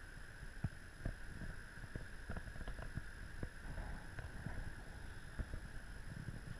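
Radio-controlled model boat running on the water, a steady high whine from its motor, with low wind rumble and scattered knocks on the microphone.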